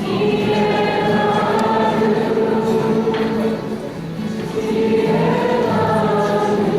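A group of voices singing together in chorus, holding long notes.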